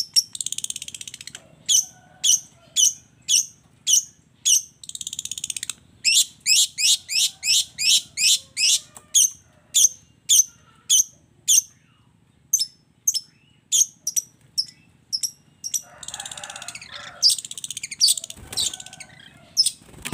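Long-tailed shrike (cendet) singing: sharp, high, downward-sweeping notes repeated in series, about two a second, quickening to a fast run for a few seconds. Near the end come harsh, scratchy passages.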